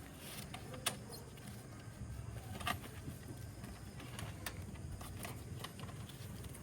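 Scattered light clicks and knocks of tools and parts being handled during installation work, the two loudest about a second in and near the middle, over a low steady background rumble.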